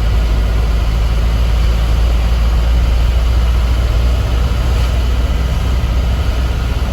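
Isuzu Elf truck's diesel engine running steadily with road noise as the truck drives, a constant deep rumble.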